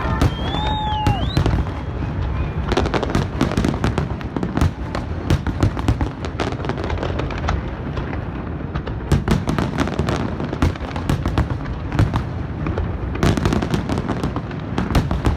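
Large fireworks display: a dense barrage of bangs and crackles from many shells bursting in rapid succession, without a break. A wavering whistle sounds in the first second or so.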